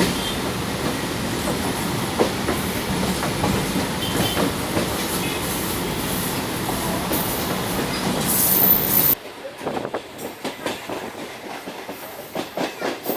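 Suburban electric train running on the rails, steady loud rumble with wheel clatter and a high thin squeal around eight seconds in. About nine seconds in the sound drops suddenly, leaving quieter, uneven clacking.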